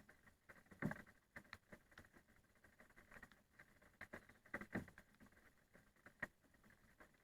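Scattered raindrops falling, heard as faint irregular taps, with a few louder drops about a second in and again a little before five seconds in.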